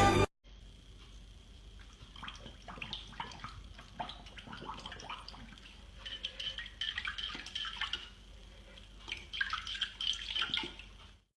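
Faint water sounds: small irregular drips and splashes coming in clusters, over a faint steady high tone.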